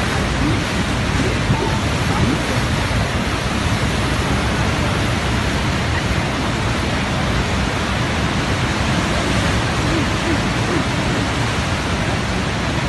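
Niagara Falls' heavy flow of falling water: a loud, steady rush of noise that holds even throughout.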